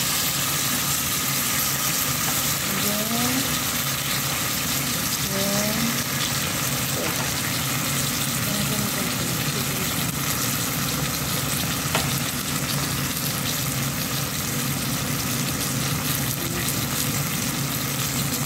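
Garlic, sliced onion and sesame seeds sizzling in oil with freshly added soy sauce and vinegar in a nonstick pot, stirred with a spoon. The sizzle is steady, with a single light tap about twelve seconds in.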